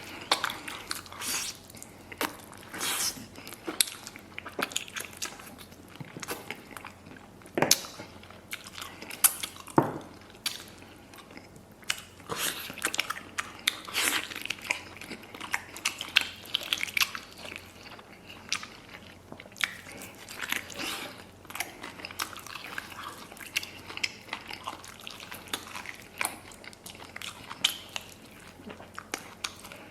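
Close-up chewing and biting of red-braised pig's trotters: irregular wet smacks, bites and crunches one after another.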